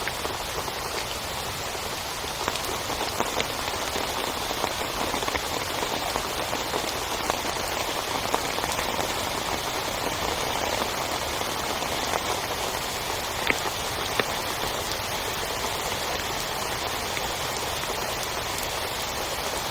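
Heavy rain falling steadily, with scattered sharper drop hits standing out now and then.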